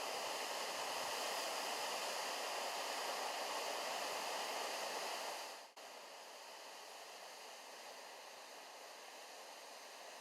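Waterfall: a steady, even rush of falling water. A little past halfway it dips for an instant and resumes noticeably quieter.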